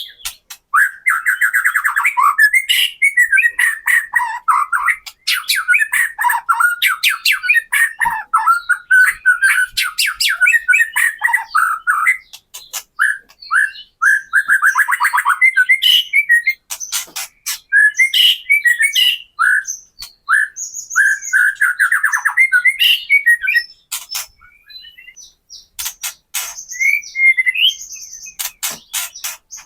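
White-rumped shama (murai batu) giving 'kretekan' calls: fast rattling, stuttering chatter mixed with sharp clicks, in near-continuous bursts that thin out briefly about two-thirds of the way through.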